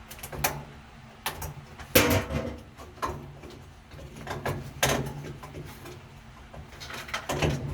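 Hands working on a washing machine's water inlet valve while refitting its hose: a string of sharp clicks, knocks and rattles of plastic and metal parts, loudest about two seconds in and again near the end.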